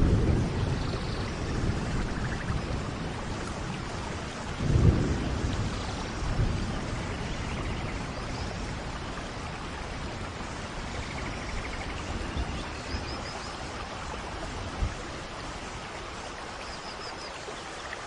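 Steady tropical rain with low rolls of thunder, the loudest about five seconds in, and faint short bird trills later on.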